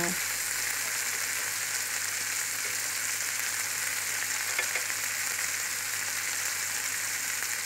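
Beef steaks and vegetables sizzling steadily in hot olive oil in a grill pan, with a few faint ticks from tongs turning the vegetables.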